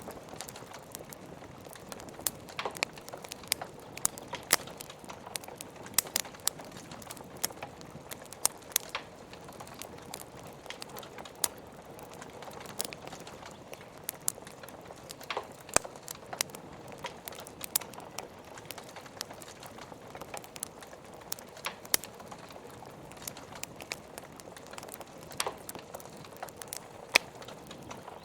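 Burning wood logs crackling, with irregular sharp pops, several close together at times, over a steady hiss of rain.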